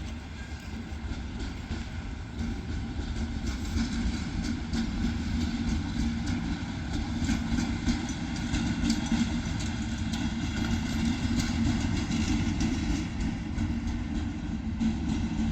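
Train running on the rails: a steady rumble with faint wheel clatter, growing louder about four seconds in and then holding.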